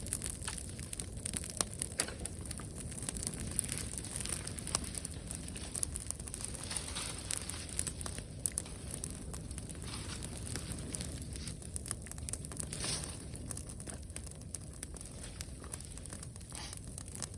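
Wood bonfire crackling, with irregular sharp pops.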